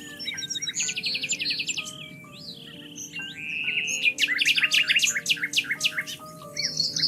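Several songbirds singing and chirping, with rapid trills and quick falling notes that are busiest in the second half. Soft, slow music of long held notes plays underneath.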